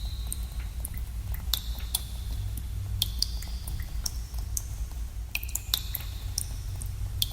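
Water drops falling into pools in a cave, each a sharp plink with a short ringing tone, coming at irregular intervals every second or so, over a steady low rumble.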